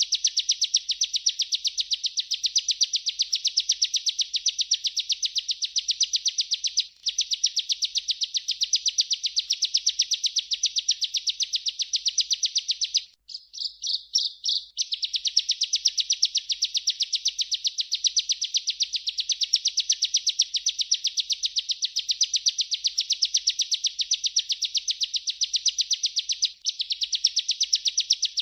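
Ciblek (bar-winged prinia) singing a continuous rolling trill ('ngerol') of rapid, high, evenly repeated notes. The trill breaks off three times; in the middle break, about halfway through, come a few separate notes before the roll resumes.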